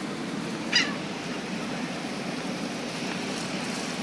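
A bird gives one short, sharp call about a second in, over a steady low background rumble.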